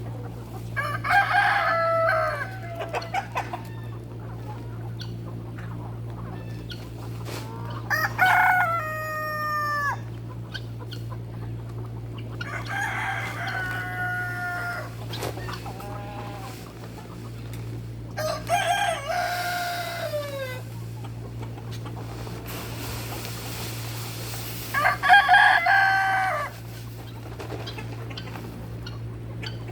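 Rooster crowing five times, each crow about two seconds long and ending on a falling note, spaced several seconds apart over a steady low hum.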